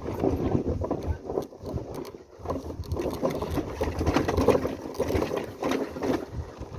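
Motorcycle engine running at low speed, a fast uneven mechanical clatter mixed with rattling as the bike goes over a rough road.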